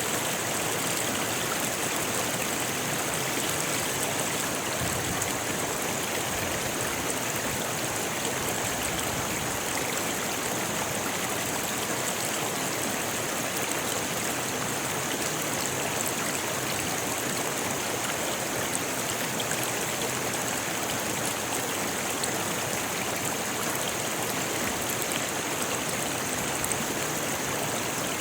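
Rocky forest river flowing: a steady rush of water over stones, unbroken throughout.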